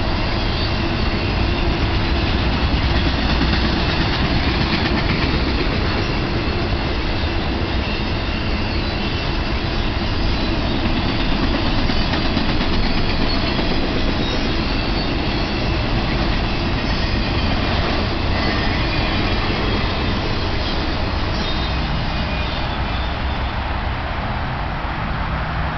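Intermodal freight train's flatcars, loaded with highway trailers, rolling past: a steady rumble of steel wheels on rail, easing slightly near the end.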